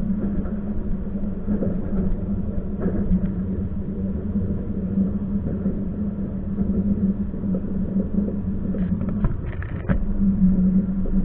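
Passenger train running, heard on board: a steady rumble and hum, with a few short clicks near the end.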